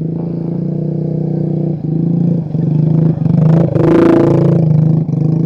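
Motorcycle engine running steadily while riding, its note dropping briefly several times, with a brief louder rush about four seconds in.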